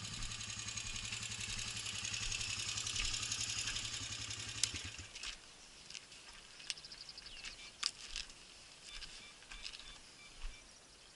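ATV engine running steadily, then stopping suddenly about five seconds in; a few faint clicks and knocks follow.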